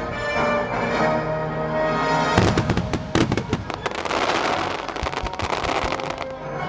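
Aerial firework shells bursting in a string of sharp bangs over music, with a stretch of dense crackling about the middle.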